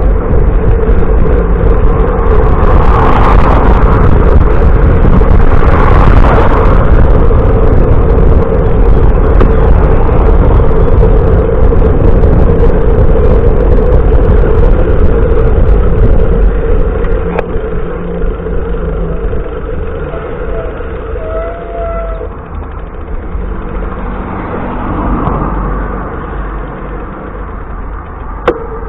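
Road traffic noise: a loud, steady low rumble with a humming tone, easing off sharply about 17 seconds in.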